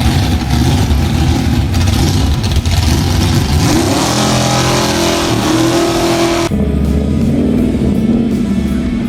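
Classic Ford Mustang V8 engine revving hard under throttle, its pitch climbing and then holding a few seconds in; the sound changes abruptly about two-thirds of the way through.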